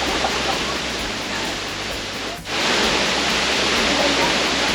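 Waterfall rushing steadily into its plunge pool, with a brief sharp drop in level about halfway through.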